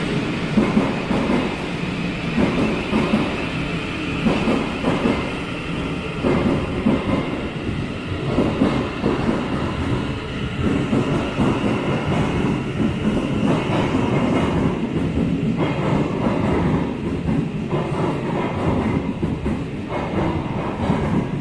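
Thameslink Class 700 electric multiple unit running along the platform beside the listener: a steady rumble of the train in motion, with wheels clicking over the rail joints.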